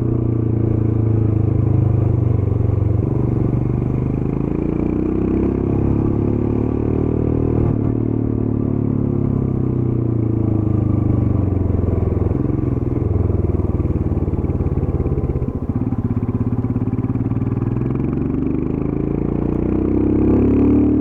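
Royal Enfield Scram 411's single-cylinder engine running through the stock exhaust while riding. The engine note rises and falls repeatedly as the revs change, with a brief drop about fifteen seconds in and a climb again near the end.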